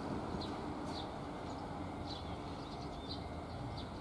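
Small birds chirping repeatedly in quick short calls over a steady low background rumble.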